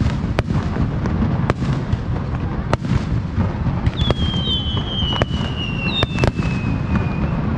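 Aerial fireworks bursting, with sharp bangs about every second over a steady low rumble. From about four seconds in, a long high whistle slowly falls in pitch for about three seconds.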